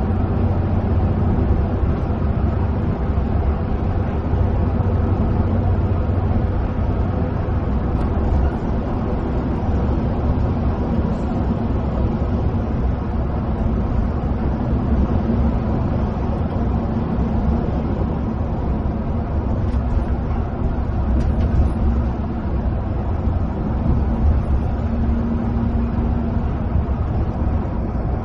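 Inside a coach's cabin while it cruises on a highway: the bus engine runs steadily, with a continuous low drone and the roar of the tyres on the road.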